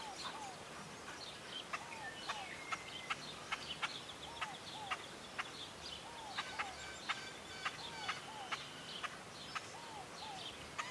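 Birds calling: a short two-note chirp repeats every second or two, mixed with sharp clicks and higher, quicker chirps.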